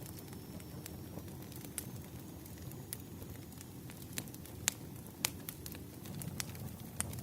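Burning firewood crackling: irregular sharp snaps and pops, a few louder ones around the middle, over a low steady rumble.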